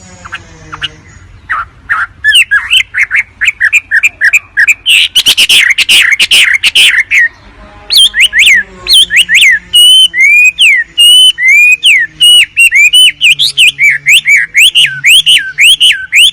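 Wambi bird song: fast runs of sharp, repeated chirps, breaking off briefly about seven seconds in, then resuming as a run of loud down-slurred notes.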